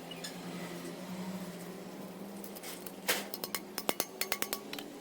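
A faint steady hum, then a quick run of sharp metallic clicks and clinks about three seconds in, roughly ten in under two seconds: small steel parts and hand tools knocking together during valve-train assembly on the cylinder head.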